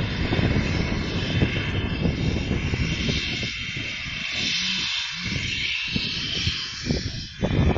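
Steady drone and hiss of railway engines running, with a band of high steady tones that grows stronger about three seconds in, over wind buffeting the microphone.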